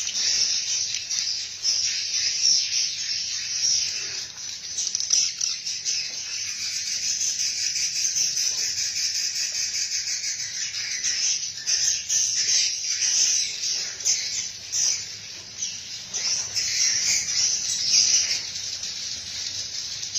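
A dense, continuous chorus of high-pitched chirping and buzzing from birds and insects, flickering rapidly without a break.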